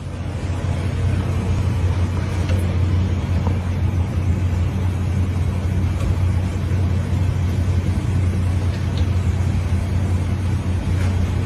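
Motor vehicle rumble: a steady low hum under a loud, even hiss.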